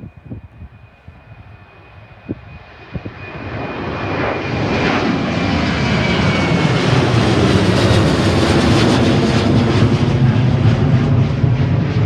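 Jet engines of a departing Ryanair Boeing 737 at takeoff power. The roar swells from about three seconds in and then holds loud, with a deep rumble underneath. A few short knocks are heard before the roar builds.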